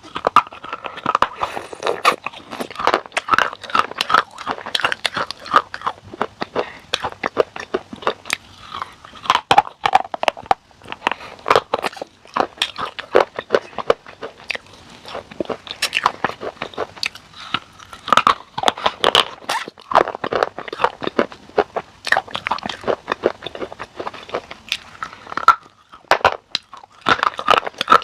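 Close-miked biting and chewing of a crisp, crunchy food: dense, irregular runs of sharp crunches with a few brief pauses.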